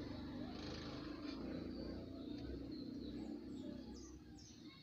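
Small birds chirping faintly in short, high, falling notes in the second half, over a low steady hum.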